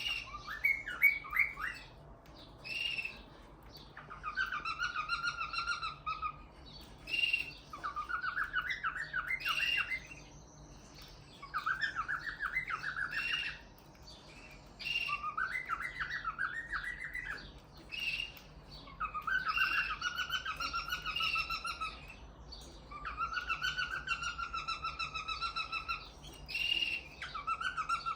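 Male cockatiel singing its courtship song: phrases of warbling, fluttering whistles alternating with short higher chirps, repeated over and over with brief pauses between them.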